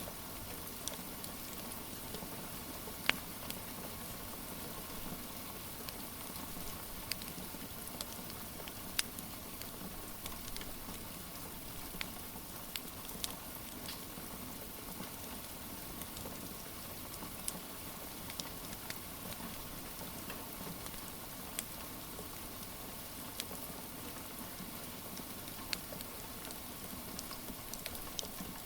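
Steady rain hiss with the scattered sharp pops and snaps of a crackling wood fire, one every second or few.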